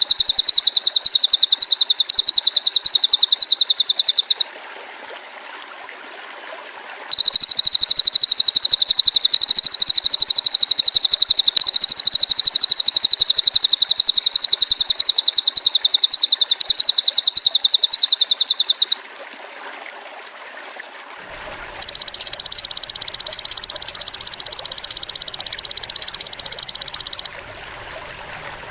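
Masteran recording of cililin and belalang emas (golden grasshopper) calls: long, very rapid, high-pitched pulsing trills lasting several seconds each, twice, then a shorter, slightly lower trill near the end. A faint steady trickle of water runs underneath in the gaps.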